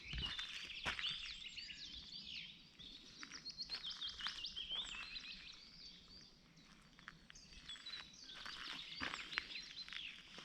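Several songbirds chirping and singing over one another in a dense chorus, thinning briefly past the middle. A few short clicks come in near the start and again near the end.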